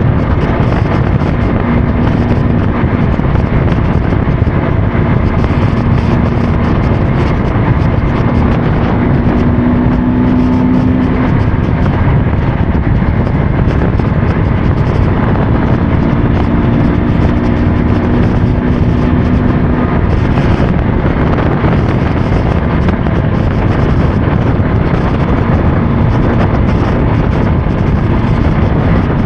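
Motorcycle engine running on the move, with heavy wind and road noise on the microphone. A faint engine note rises and falls slightly a few times.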